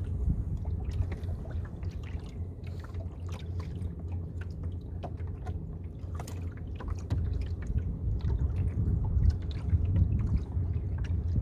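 Water sloshing and dripping around a small fishing boat over a steady low rumble, with scattered light clicks and ticks.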